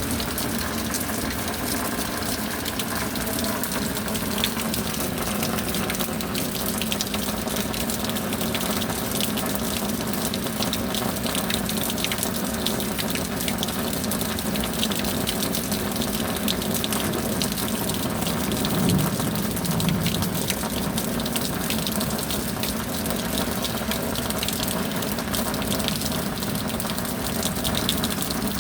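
Steady rain falling: a dense patter of drops over a continuous rush of water.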